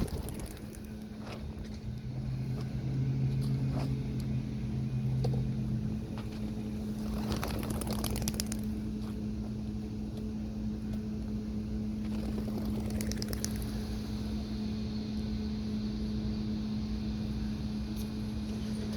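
A vehicle engine idling with a steady low hum, and a few knocks and rustles over it.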